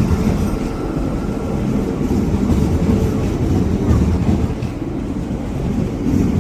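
A train running by a station platform: a steady, loud low rumble with a constant hum over it.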